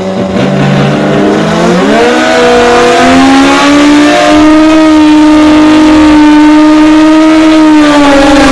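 Drag-racing motorcycle engine at full throttle down the strip, its pitch stepping up through the early gears and then holding high and steady. The pitch sinks near the end.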